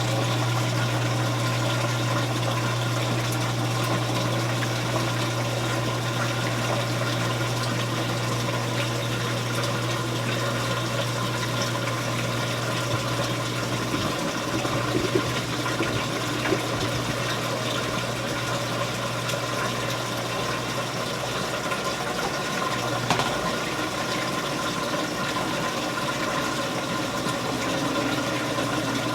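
Admiral belt-drive washing machine in its neutral drain: the motor and drain pump run with a steady hum while wash water gurgles out of the tub. A few small knocks come about halfway through and again near the end.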